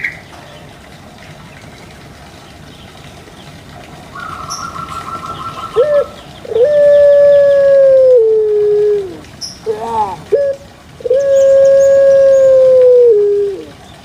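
An animal calling: two long, loud held calls of about two seconds each, each dropping in pitch at the end, with short calls between them and a faint rapid trill before the first.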